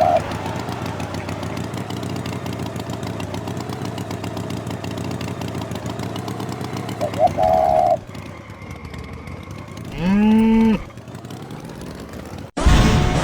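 An engine running steadily with a fine pulsing, with two short beeps, one at the start and one about seven seconds in. About ten seconds in comes a single cow moo, falling in pitch. Music cuts in near the end.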